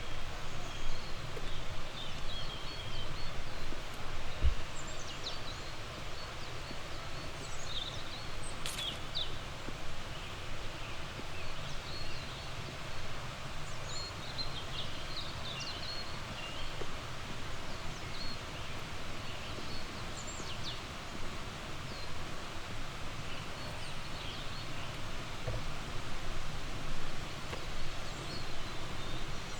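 Songbirds chirping and trilling throughout, several short high calls overlapping, over a steady low outdoor rumble.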